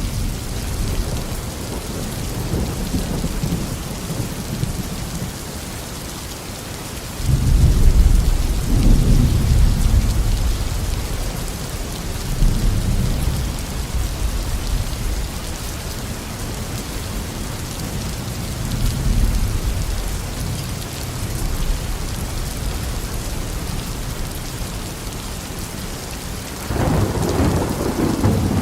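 Heavy tropical rain falling steadily on a garden, with rolls of thunder: a sudden loud rumble about a quarter of the way in that rolls on for several seconds, smaller rumbles after it, and another sharp onset of thunder near the end.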